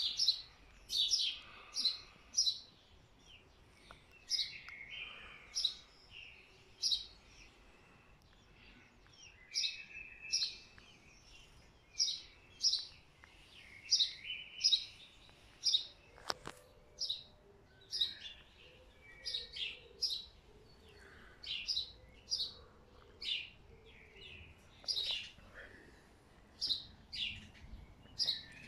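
Small songbirds chirping and singing: short, sharp high notes repeated in quick groups, with softer, lower warbled phrases between them. A single click sounds about sixteen seconds in.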